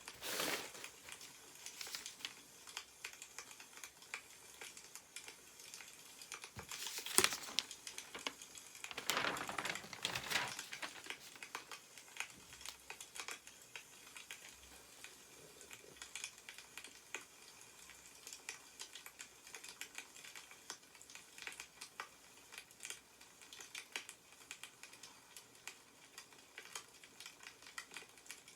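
Crackling of a wood fire, a steady patter of small sharp pops, with newspaper pages rustling a few times as they are handled and turned, loudest about seven and ten seconds in.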